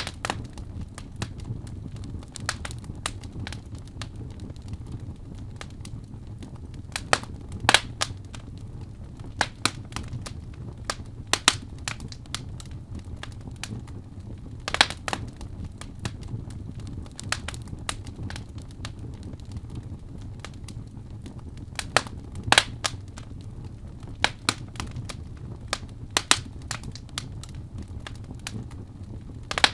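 Fire burning in a fireplace, crackling with irregular sharp pops over a steady low rumble of the flames, several pops louder than the rest.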